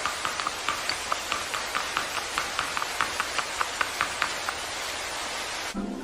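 Steady rain falling, with many separate drops ticking through it at irregular intervals. It stops abruptly near the end.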